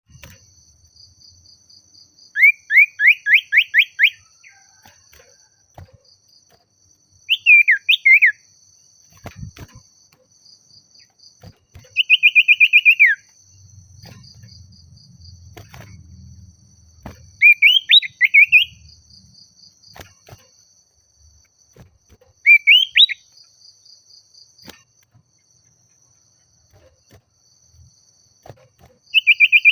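Common iora singing: about six short bursts of rapid repeated whistled notes, several seconds apart, some ending in a falling slur. A faint, steady, high insect trill runs underneath.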